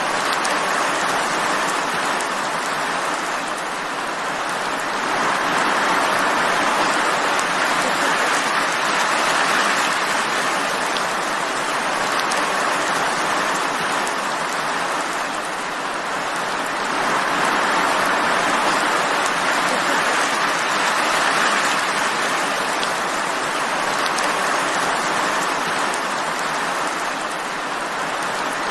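Steady rainfall, an even hiss of drops that swells and eases slowly every ten seconds or so.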